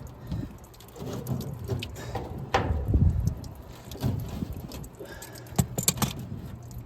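Metal clinking and knocking as parts of an air conditioner are worked loose by hand and with pliers, including a short squeak about two and a half seconds in, over a low rumble of wind on the microphone.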